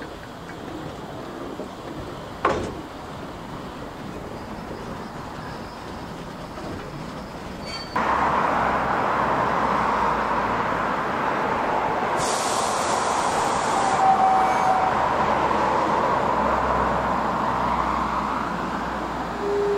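Train noise from a carriage of a steam-hauled heritage train, a steady rumble and rattle with a single click a couple of seconds in. About eight seconds in the sound jumps suddenly to a louder steady noise while the train stands still, with a brief higher hiss a few seconds later.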